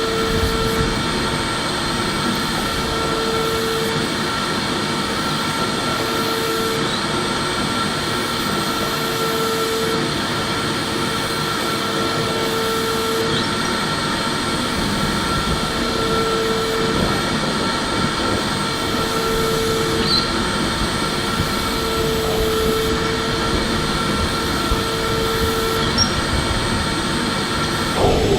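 Electric vacuum cleaner running steadily: a constant rushing of air with a high motor whine, and a lower hum that comes and goes every couple of seconds.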